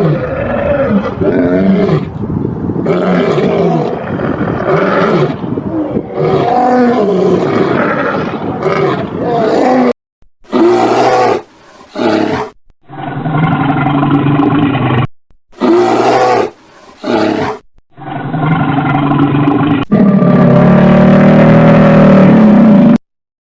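Loud animal calls, pitched and bending, cut together from several separate clips with abrupt switches. The last clip, near the end, is one long, steady call.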